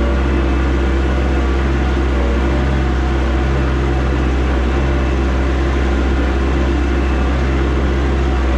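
1988 Toyota SDK7 skid steer's engine running steadily with a deep, low hum.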